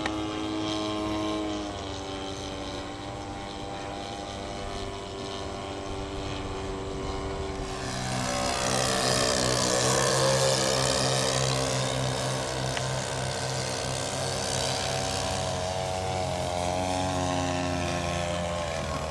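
Radio-controlled model airplane engines with propellers. One engine runs at a steady pitch, then a louder one comes in about eight seconds in, is loudest around ten seconds and eases off, as a model flying past would.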